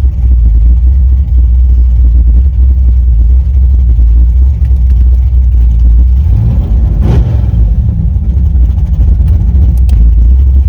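Vehicle engine running steadily while driving, a loud low drone. A brief louder swell rises and falls about seven seconds in.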